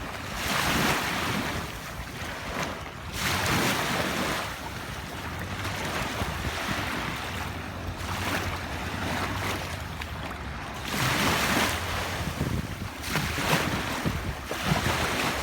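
Sea waves washing onto the beach, the surf swelling and falling back every few seconds, with wind blowing on the microphone.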